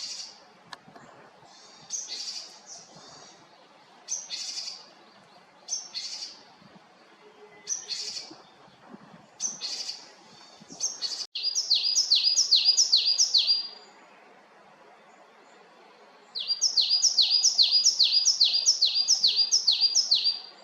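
Japanese tit calling. It gives a string of harsh, scratchy calls about every two seconds, then two quick runs of repeated downslurred whistled notes, the second run longer.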